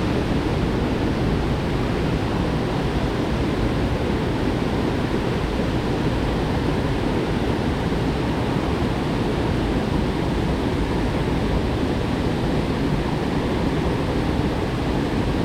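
Steady rushing water, an even noise with no breaks or changes.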